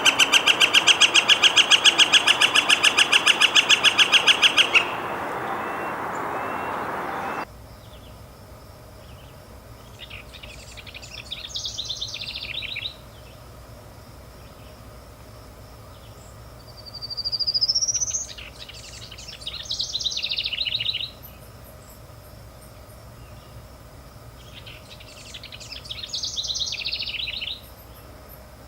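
Northern flicker calling: a long, rapid, even run of loud notes at about ten a second, lasting some five seconds. After a break come several shorter, more varied call phrases, one starting with a rising whistle.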